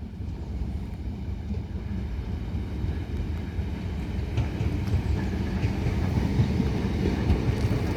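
Third-rail electric multiple-unit trains running through the station: a steady low rumble of wheels on rail that grows slightly louder toward the end.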